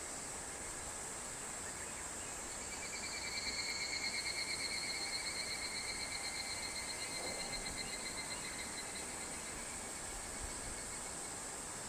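A higurashi (evening cicada) calling once: a pulsing trill that starts about two and a half seconds in, swells quickly and then slowly fades out over about six seconds. Under it runs a steady high-pitched hiss of other insects.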